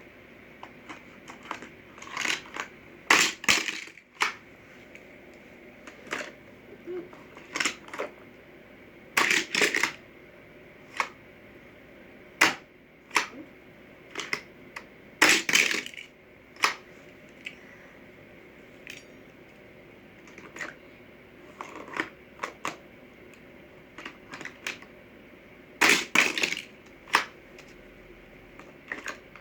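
Hot Wheels shark playset and toy car being played with: irregular plastic clicks and clacks, with louder clusters of knocks every several seconds.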